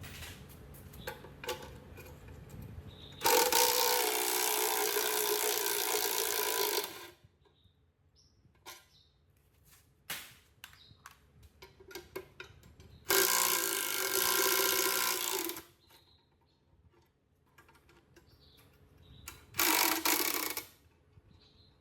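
A handheld power tool running in three bursts: two of about three to four seconds and a short one of about a second near the end. Scattered small clicks and knocks of workshop handling fall between the bursts.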